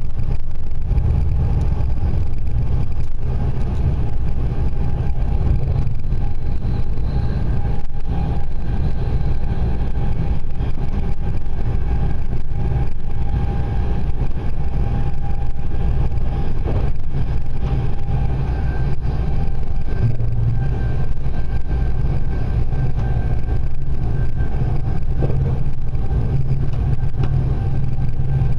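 Passenger train running at speed, heard from inside the carriage: a loud, steady low rumble of the wheels on the track, with a faint steady whine above it.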